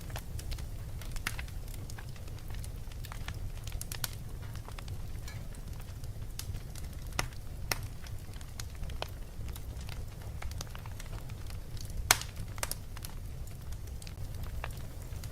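Fireplace fire crackling with irregular sharp pops, one markedly louder about twelve seconds in, over a steady low rumble.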